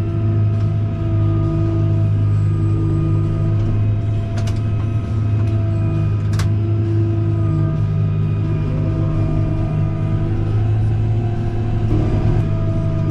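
An engine running at a steady speed, a constant low drone with a hum.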